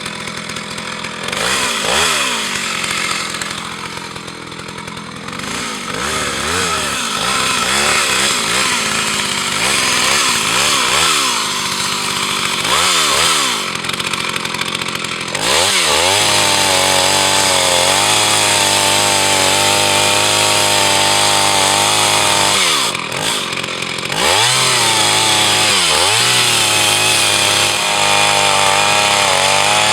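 Jonsereds 601 two-stroke chainsaw engine revved up and down from idle several times, then held at high revs for several seconds. It drops back briefly and is run at full revs again near the end. The saw is running well.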